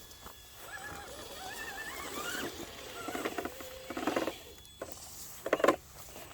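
Electric motors of radio-controlled scale rock-crawler trucks whining, the pitch wandering up and down with the throttle. There are louder bursts of motor strain at about four seconds and again near the end, the second the loudest.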